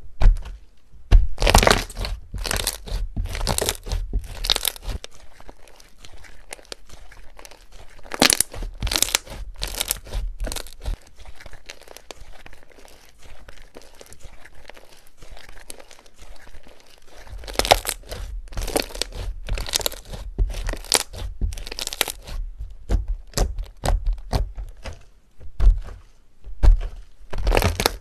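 Slime being pressed and squeezed by hand, giving clusters of crackling pops, with a quieter stretch around the middle.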